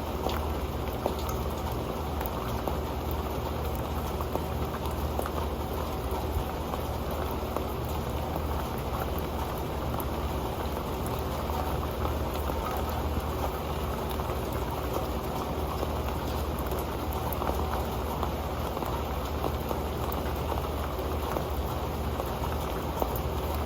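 Steady rain pattering onto an old metal pan, a dense even spatter with occasional louder drop ticks.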